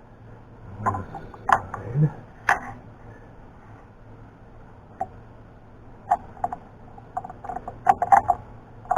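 Scattered light metal clicks and knocks of a workpiece and hand tools being handled at a milling machine: a few taps in the first seconds, then a quicker cluster near the end, over a faint low hum.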